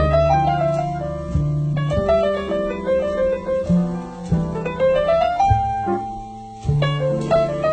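Jazz piano trio playing a slow ballad: piano runs and chords over plucked double bass notes, with a long held piano note and a brief drop in loudness past the middle.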